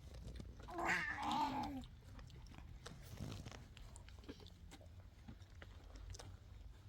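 A short, wavering animal call about a second in, followed by faint scattered clicks over a low steady hum.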